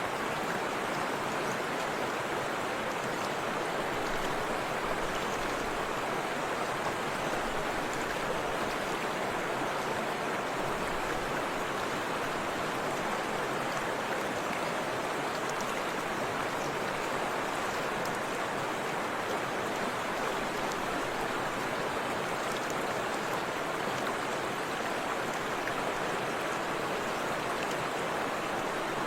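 Forest river and small waterfall flowing steadily, an even rushing of water.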